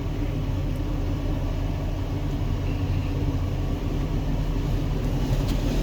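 An engine running steadily at idle, a low rumble with a steady hum.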